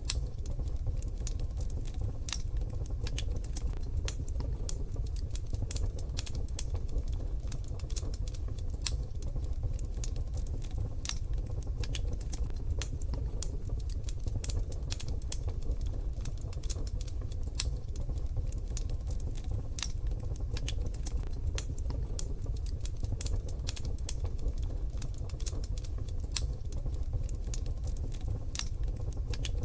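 Wood fire in a wood-burning stove crackling: irregular sharp pops and snaps, many a second, over a steady low rumble.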